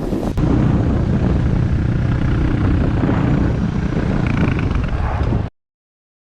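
A motorcycle riding on the road: a steady low engine rumble mixed with wind noise. It cuts off suddenly about five and a half seconds in.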